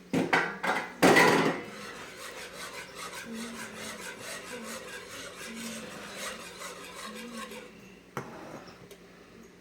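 A kitchen utensil knocks twice against a saucepan, then scrapes steadily and rhythmically around the pan as Parmesan is stirred into a heavy cream sauce. A single sharp click comes near the end.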